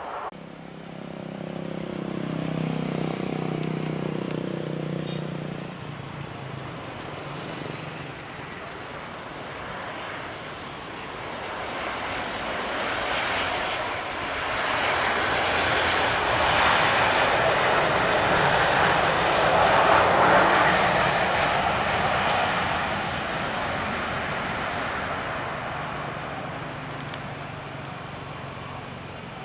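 Jet airliner passing on landing approach. A broad engine roar swells to a peak about two-thirds of the way through and then fades, with a high whine dropping in pitch as it goes by. A low engine hum is heard in the first few seconds.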